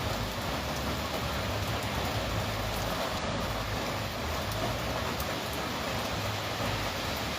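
Steady rain falling, a constant hiss with scattered drop ticks.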